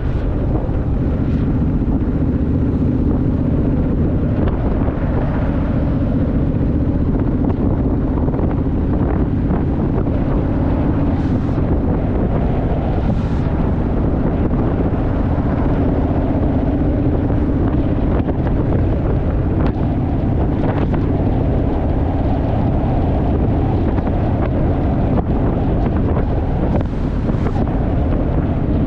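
Wind buffeting the microphone on a Honda Rebel motorcycle at road speed, with the bike's parallel-twin engine running steadily underneath.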